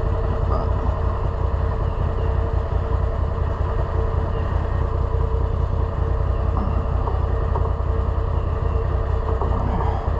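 Cub Cadet Big Country utility vehicle's engine idling steadily.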